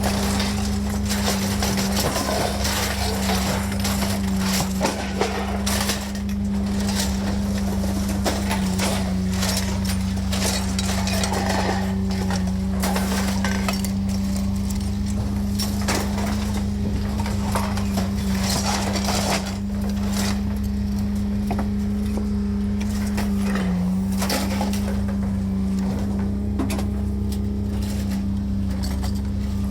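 Scrap metal clanking and clinking again and again over a steady motor hum.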